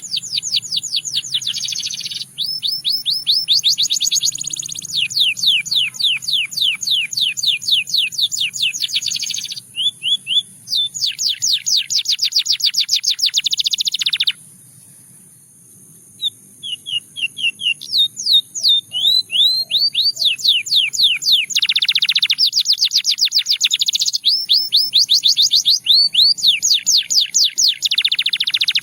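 Canary singing: long runs of fast, rapidly repeated trilled notes, each run lasting a few seconds, with a short break of about two seconds midway.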